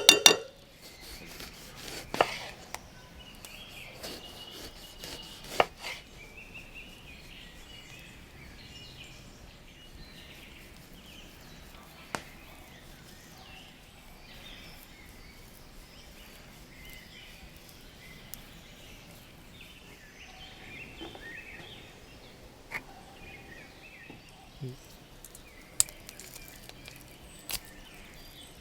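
Campfire wood cracking and popping now and then, sharp single cracks a few seconds apart with a cluster at the start, over faint birdsong chirping steadily in the background.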